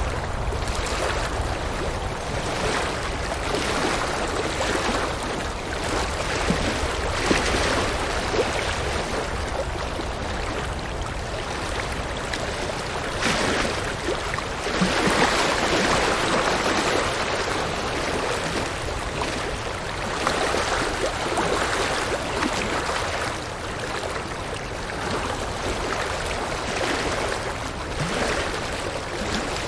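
River water flowing over rocks, a steady rushing noise that swells a little around the middle.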